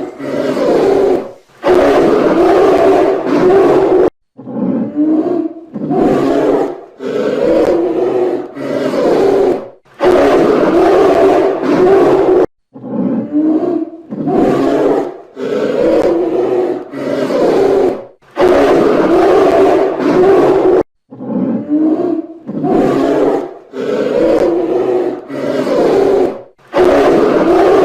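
Grizzly bears roaring again and again, loud calls of one to two seconds each with short breaks between.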